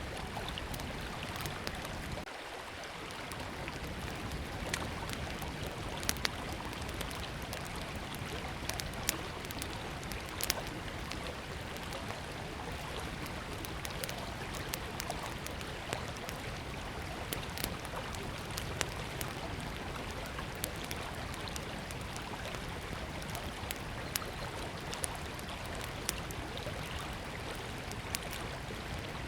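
A river flowing steadily, with a small wood campfire crackling over it: sharp pops and snaps scattered irregularly throughout.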